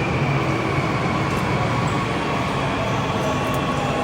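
Steady running noise of a high-speed train, an even rumble with a faint high whine over it.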